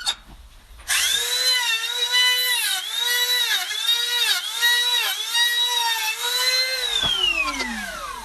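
A small electric motor, like a power drill's, whining at a steady high pitch that dips briefly several times, then spinning down with a falling pitch near the end.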